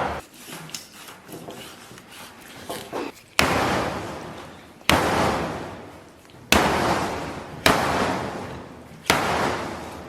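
Pig trotters being chopped through the bone with a cleaver on a chopping board: five heavy chops about one to one and a half seconds apart, each ringing out as it fades, after a few lighter knocks.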